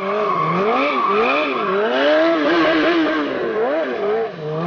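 Motorcycle engine being revved hard, its pitch rising and falling over and over as the rider works the throttle during stunt riding.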